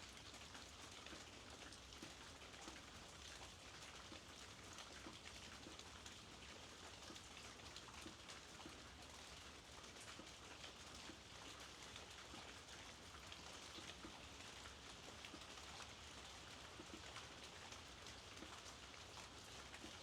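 Faint, steady rainfall, with a fine patter of individual drops landing on surfaces.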